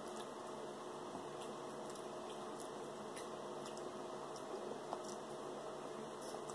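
Faint chewing and small mouth clicks of a person biting meat off a baked fried chicken wing, over a steady faint background hiss.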